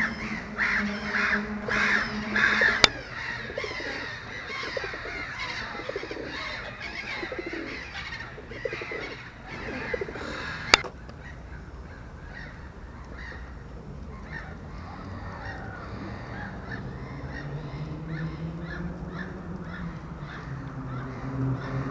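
Birds calling: a quick run of loud, harsh repeated calls about three a second at the start, then quieter mixed calls, and a low steady call from about three quarters of the way through. Two sharp clicks stand out, one near the start and one about halfway.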